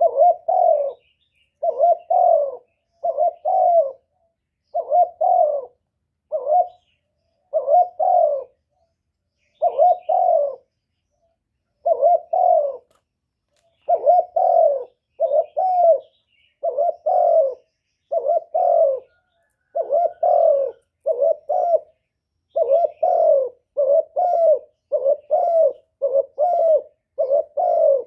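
Spotted dove cooing over and over: short clusters of low coos, one to four notes each, about one cluster a second. These are the calls of a decoy male, used to lure wild doves.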